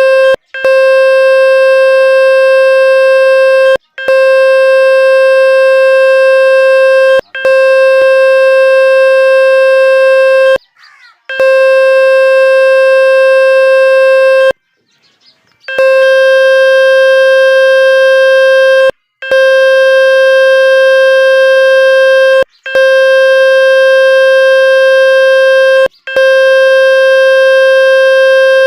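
Water-eject speaker tone: a loud, steady, buzzy electronic tone of about 500 Hz with strong overtones, played to shake water out of a phone speaker. It sounds in blocks of about three seconds separated by brief cut-offs, with two longer breaks near the middle.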